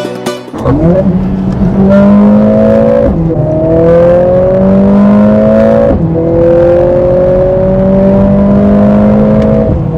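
Mercedes-AMG CLA 45 S's turbocharged 2.0-litre four-cylinder engine accelerating hard through the gears. Its pitch climbs steadily, drops sharply at two upshifts about three seconds apart, and cuts off just before the end.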